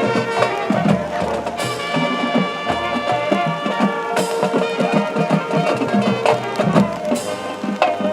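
High school marching band playing its field show. Brass holds chords over a quick drum-line rhythm and low bass notes, with a loud crash three times, about every two and a half seconds.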